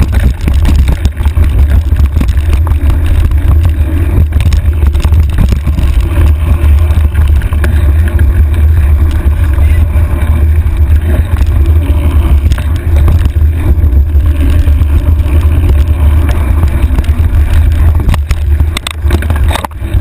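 Wind buffeting the microphone of a handlebar-mounted camera, making a loud, steady low rumble, with scattered knocks and rattles from the bike riding over a rough trail.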